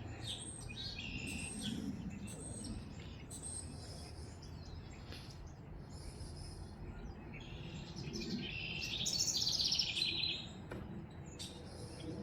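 Songbirds chirping and singing, with a loud, fast trill of repeated notes about eight to ten seconds in, over a steady low background hum of outdoor noise.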